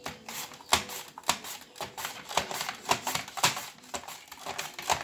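Potato being pushed back and forth across the straight blade of a Tupperware mandoline slicer, a quick cutting stroke about twice a second, each with a sharp scrape.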